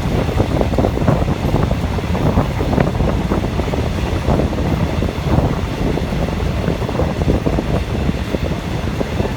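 Wind buffeting the microphone at the open window of a moving passenger train, over the train's steady running noise. The gusts rise and fall constantly.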